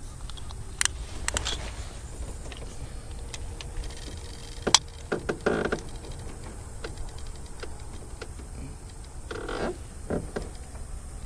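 Scattered knocks and clicks in a jon boat, over a steady low rumble. The sharpest knock comes about halfway through, with a short cluster of knocks just after it and a few more near the end.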